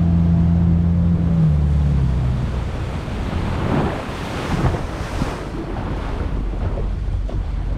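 Motorboat engine running steadily, then throttled back about a second and a half in, its pitch dropping and fading. Water then splashes and rushes, with wind buffeting the microphone.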